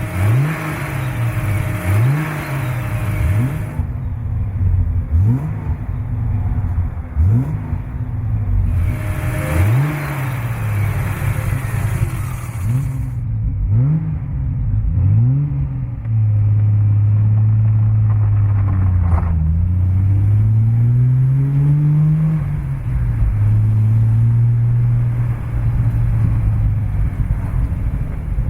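1971 Triumph TR6's 2.5-litre straight-six engine revved in a quick series of short blips, about one every second and a half. It then runs at a steady speed, with one slow drop and rise in revs about two-thirds of the way through.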